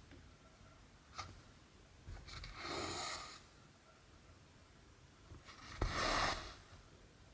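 Cotton embroidery thread pulled through stamped cross stitch fabric, making two brief rasps, with a small click of the needle passing through the cloth about a second in and another just before the second rasp.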